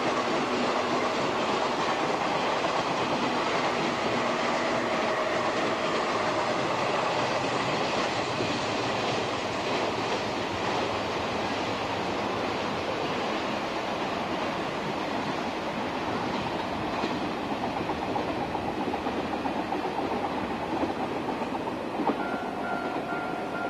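JNR cream-and-red limited-express electric train running past on the main line, wheels clacking over the rail joints. A steady pulsing tone comes in near the end.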